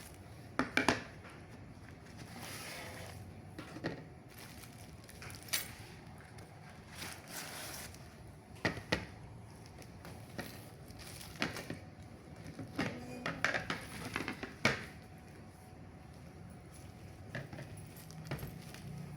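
Handling noises: a dozen or so scattered clicks and taps of small objects being picked up and set down, with brief stretches of rustling, over a faint steady hum.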